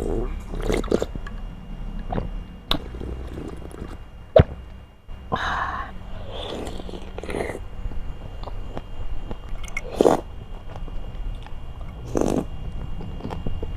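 Close-up eating sounds: chewing canned pineapple pieces from fruit syrup, with scattered wet crunches and clicks. One sharper, louder click comes about four seconds in.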